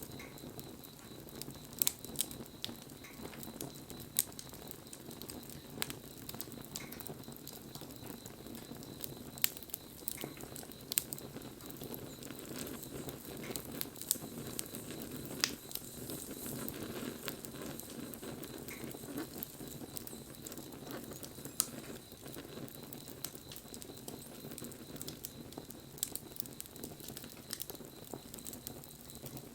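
Wood fire (takibi) burning, crackling with irregular sharp pops over a low steady rush of flame.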